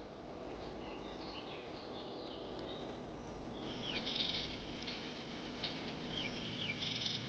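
High-pitched animal chirps over a steady low background noise, sparse at first, then busier and louder from about halfway in, with quick falling squeaks.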